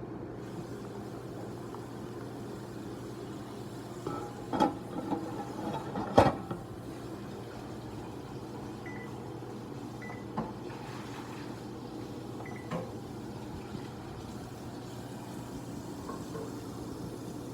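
Glass jelly jars clinking and knocking a few times, the loudest about six seconds in, with short ringing tones, over a steady low hum.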